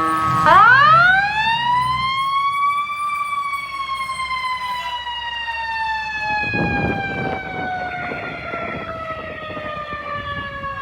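Fire engine siren winding up sharply about half a second in, then slowly winding down in pitch for the rest of the time, in the long coast-down of a mechanical siren.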